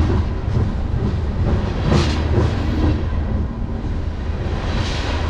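Railroad cars rolling directly over the rails where the microphone lies between them: a heavy, steady rumble of steel wheels on the rails, with sharp clacks as wheel sets pass, the loudest about two seconds in.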